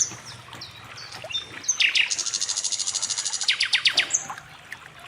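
Songbirds singing: short high chirps, then a fast high trill about two seconds in that lasts just over a second, followed by a quick run of falling notes and a brief whistle.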